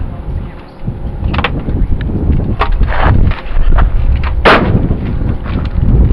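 Wind buffeting the camera microphone: a rough low rumble with several sharp pops, the loudest about four and a half seconds in.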